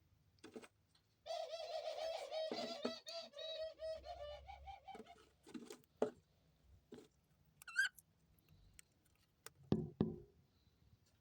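A pet dove cooing in a rolling, pulsing call for about four seconds, starting about a second in. Scattered light taps and knocks and a brief chirp follow.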